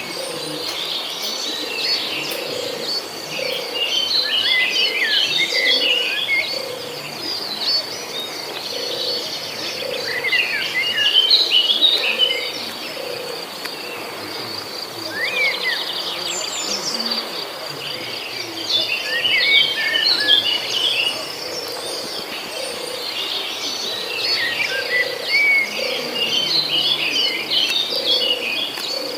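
Birds chirping in bursts of quick, high notes, with pauses between the bursts. Underneath, a steady high-pitched drone runs throughout.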